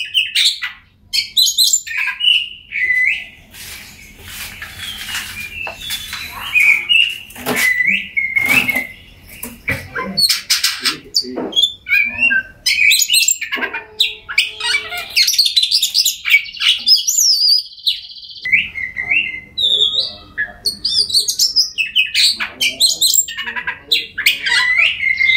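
Oriental magpie-robin (kacer) singing a fast, varied song of clear whistled phrases mixed with harsh scratchy notes. About two thirds of the way through comes a long buzzy trill.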